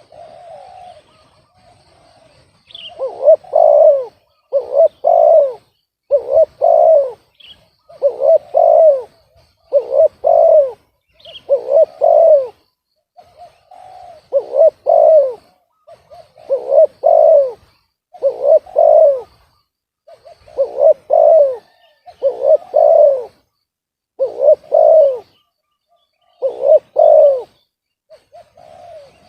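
Spotted dove cooing over and over, a phrase of a few low coos about every two seconds, with a few faint high chirps from another bird in the first seconds.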